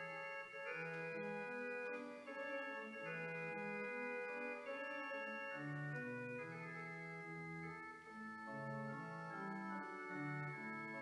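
Church organ playing music before the service: several held notes sounding together, with the chords and a bass line moving at a slow, even pace.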